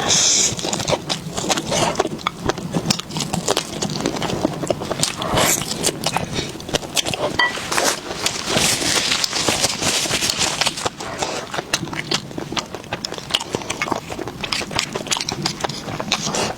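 Close-miked eating sounds: biting and chewing, a dense, irregular run of sharp clicks with louder stretches in the middle.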